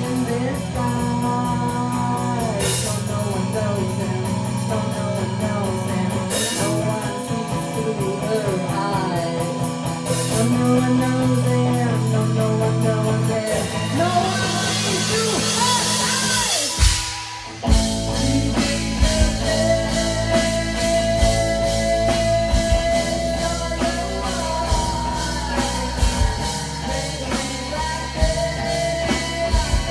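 Live rock band playing a song: singing over electric guitar and drum kit. The music breaks off briefly a bit past halfway, then comes back in with the drums.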